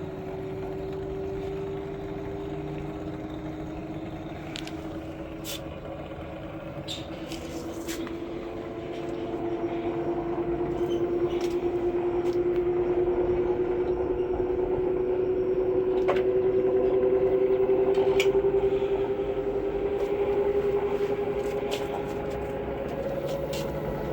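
Samsung EcoBubble digital-inverter washing machine running, its motor whine slowly rising in pitch as the drum speeds up and growing louder partway through. A few light clicks sound now and then.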